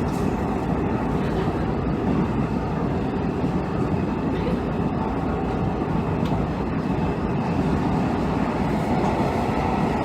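Interior running noise of a Hanshin 5700 series commuter train car, its wheels and traction motors giving a steady rumble as it runs between stations.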